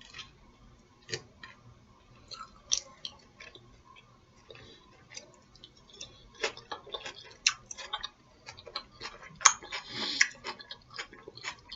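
A person chewing crisp lettuce salad close to the microphone: irregular crunches and wet mouth clicks, with a louder burst of crunching about nine and a half seconds in.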